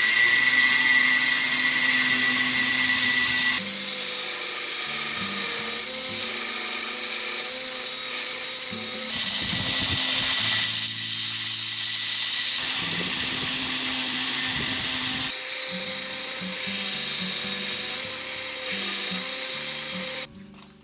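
A power tool running steadily on metal during knife making, its pitch and tone shifting at several abrupt changes, then cutting off suddenly near the end.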